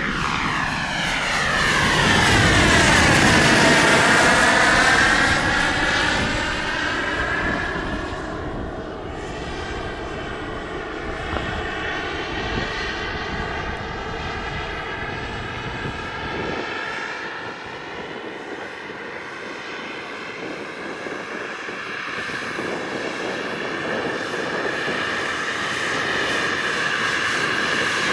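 Radio-controlled model helicopter flying, a steady whine with many overtones. It is loudest as it passes close about three seconds in, the tone sweeping as it goes by, then it fades and builds again near the end.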